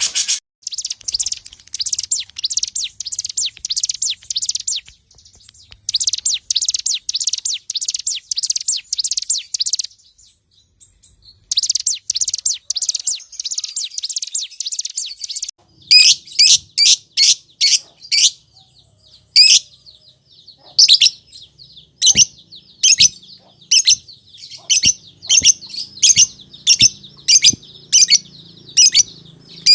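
Songbird singing harsh, rapid 'tembak kasar' phrases: three bursts of about four seconds each of very fast rattling notes. Then, from about the middle, loud sharp single notes repeated one to two times a second.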